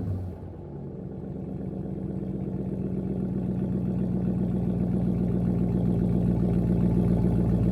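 2019 Dodge Charger R/T's 5.7-litre HEMI V8 idling through a freshly fitted MBRP 3-inch race-profile cat-back exhaust, settling just after a rev dies away at the start and then running steadily, growing gradually louder.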